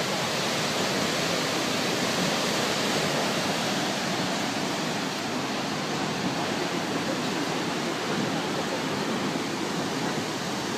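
Waterfall crashing down: a steady, even rush of falling water.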